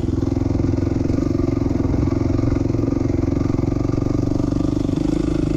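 '07 450R dirt bike's single-cylinder four-stroke engine running hard on a motocross lap, holding fairly steady revs.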